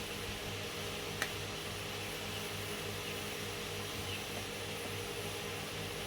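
A steady low mechanical hum from running machinery, with one light click about a second in.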